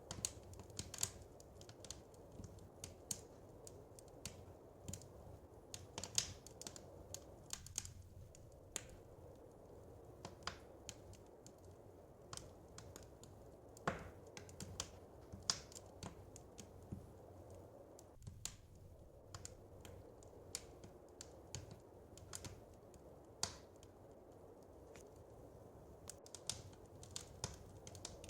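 Wood fire crackling: irregular small pops and snaps, a few louder ones, over a soft steady low background.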